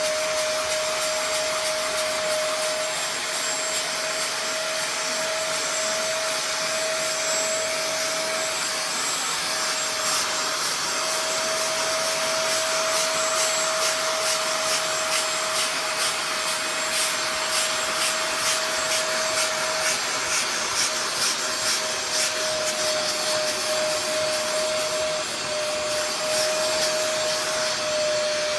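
Bissell Spot Clean Pro portable carpet and upholstery cleaner running, its motor giving a steady whine over a rushing suction noise. Through the middle stretch the sound pulses regularly, a few times a second.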